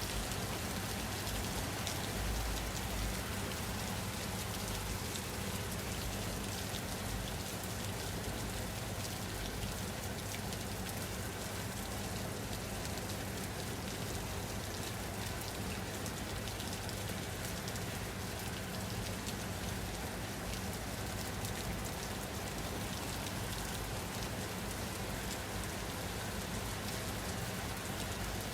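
Steady rain falling on a surface, a dense even hiss with individual drops pattering, unchanging throughout.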